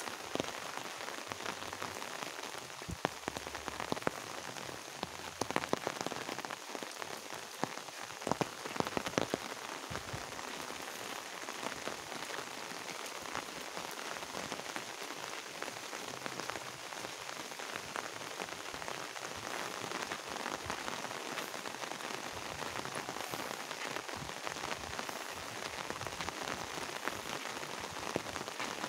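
Steady rain falling, an even hiss of drops on ground, leaves and water, with sharper individual drop hits scattered through it, most of them in the first third.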